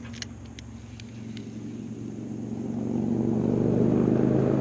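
A motor's steady drone growing steadily louder, with a few light clicks in the first second; it stops abruptly at the end.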